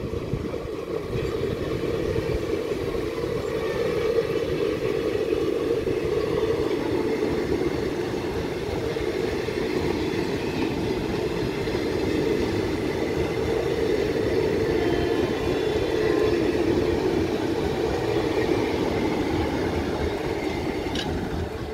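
Passenger coaches of an Indian Railways express train rolling past at close range: the steady noise of wheels running on the rails.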